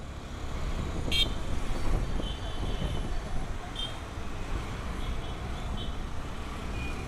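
Road traffic noise, a steady rumble of engines and tyres, with several short vehicle-horn toots. The loudest toot comes about a second in.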